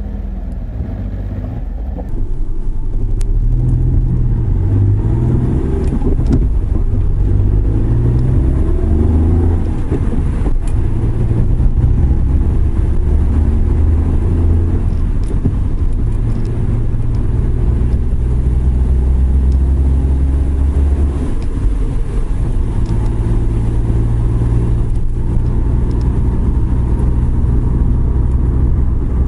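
Suzuki Every Wagon kei van driving on a wet road, with a steady low rumble of engine and tyres. The engine pitch rises and falls several times as it speeds up and changes gear. The sound gets louder about two seconds in.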